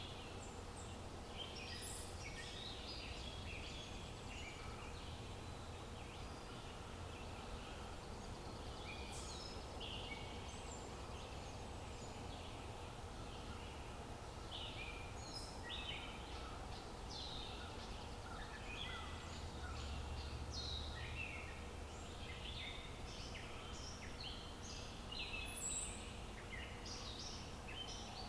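Several birds chirping and calling, with many short calls overlapping throughout, over a steady low rumble of outdoor ambience.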